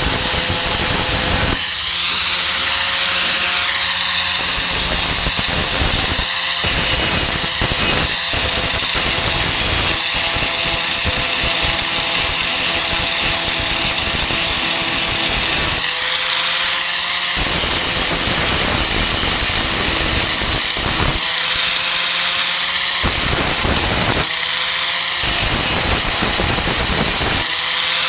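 Warrior 4-1/2 in. angle grinder with a Type 27 grinding disc grinding the welded steel patch on a truck tailgate, worked back and forth. The disc bites into the metal in long passes and is lifted off several times, spinning free with just its steady whine for a second or two.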